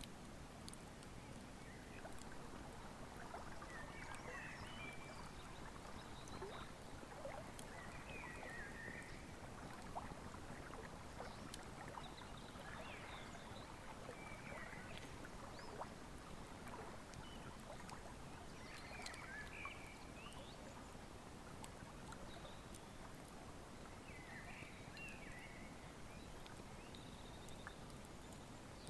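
Faint outdoor wood fire crackling with scattered small pops over the steady rush of a river, with short bird chirps breaking in every few seconds.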